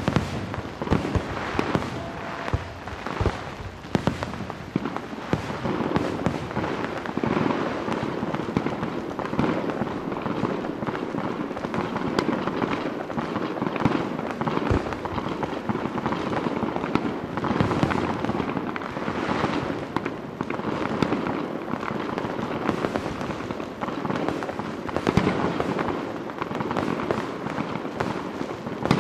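Fireworks finale: a dense, unbroken barrage of shell bursts and bangs, many overlapping each second, with constant crackling between them.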